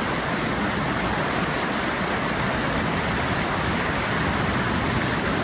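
Steady rush of water pouring through a lagoon's breakout channel to the ocean.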